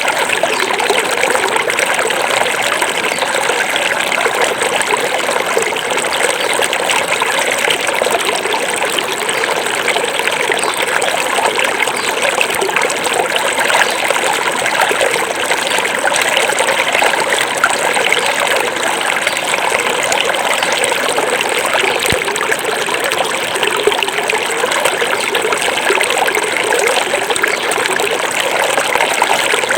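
Small forest river flowing and trickling over stones in a steady, unbroken babble.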